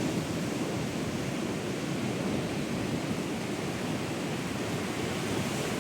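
Steady rushing noise of sea surf and wind on the Black Sea shore, with no distinct waves breaking out of it.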